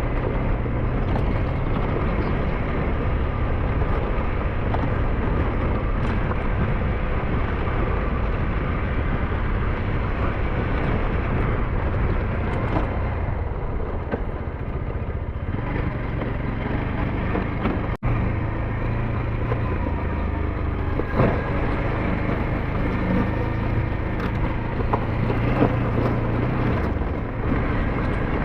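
SYM NHT 200's engine running steadily with a low hum under road and wind noise while riding, with a momentary dropout about two-thirds of the way through.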